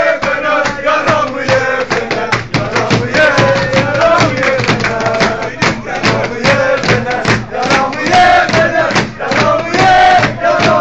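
Football supporters' stand chanting and singing in unison, with sharp rhythmic beats running through the chant.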